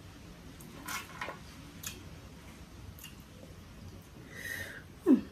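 Close-up eating sounds of fufu and light soup: soft chewing and a few lip smacks. Just before the end comes a short falling vocal sound, the loudest moment.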